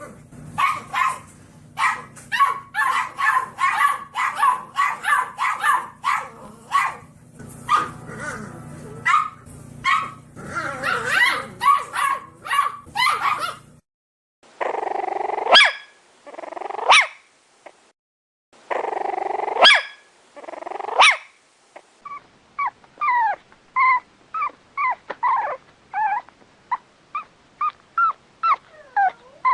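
Dogs barking in a string of separate recordings. First comes a fast run of repeated barks over a low steady hum. After about 14 s come two pairs of longer, lower barks, and from about 22 s a quick series of short, high yips.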